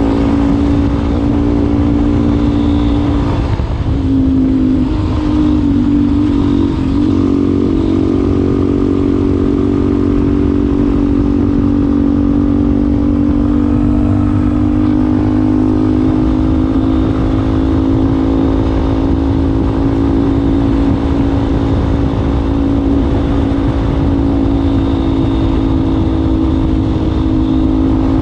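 Yamaha Ténéré 250's single-cylinder four-stroke engine running steadily through an aftermarket WACS slip-on muffler. Its pitch dips and recovers briefly a few seconds in.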